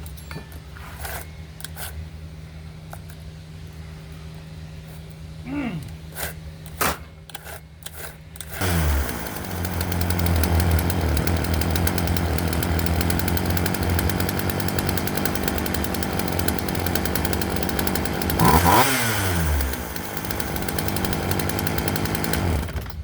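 Craftsman two-stroke chainsaw engine: a low steady hum and a few light clicks at first, then the saw runs up loudly about a third of the way in and holds a steady high-speed run. It revs up and back down once more, then cuts off just before the end.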